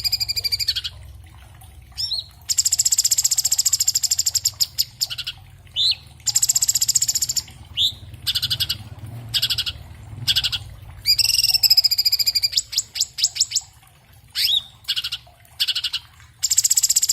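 Orange-bellied leafbird (cucak cungkok) singing: long rapid-fire, buzzy trilled phrases, separated by short quick upward-sweeping notes.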